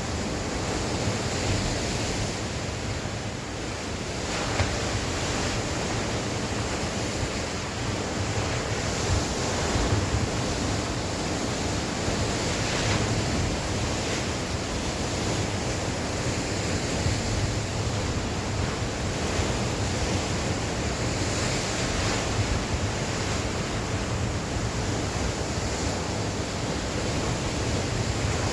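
Sea waves breaking and washing ashore in continuous surf, with wind blowing across the microphone; the rush swells and fades slowly every few seconds.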